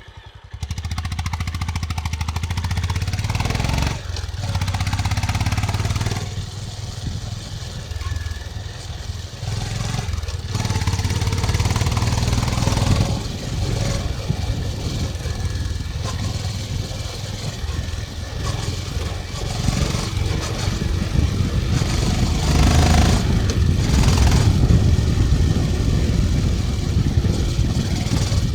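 Honda CB350 motorcycle engine and exhaust under way, a deep, steady running note that eases and picks up with the throttle, with brief dips about four and six seconds in.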